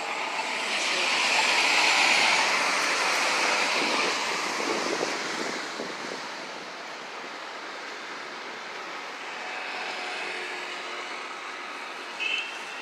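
City street traffic noise: a passing vehicle swells up and fades away over the first few seconds, leaving a steady traffic hum. A short high beep sounds near the end.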